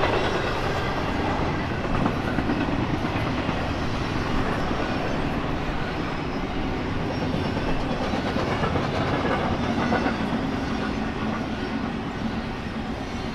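Freight train cars rolling past on the mainline, a steady rumble with wheels clicking over the rails. It grows slightly fainter near the end.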